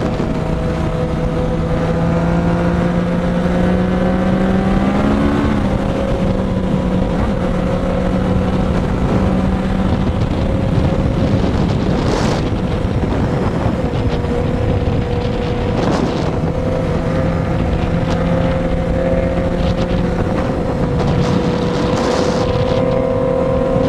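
Yamaha XJ6 and Honda CBR650F inline-four engines accelerating at highway speed, rising in pitch over the first few seconds and then holding a steady loud note. Heavy wind noise on the microphone.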